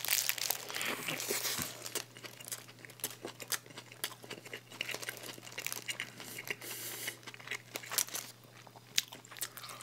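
Close-miked eating: a bite into a burger at the start, then chewing with many small wet clicks and crackles, and some crinkling of the burger's paper wrapper.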